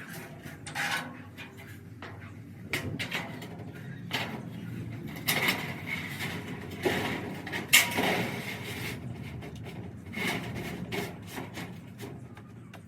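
Irregular knocks, clanks and short scrapes of hard objects being handled, about a dozen scattered through the stretch, the loudest about eight seconds in.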